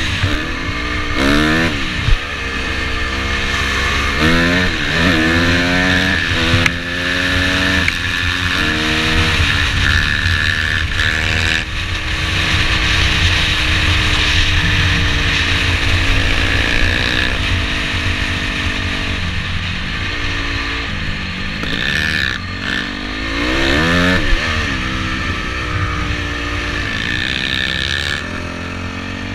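Dirt bike engine under way, revving up with a rising pitch through the gears several times, with steadier running in between.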